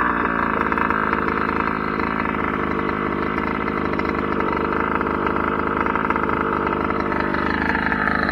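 The Kraken Vekta.5 RC trophy truck's small two-stroke petrol engine idling steadily, its pitch sagging slightly near the end.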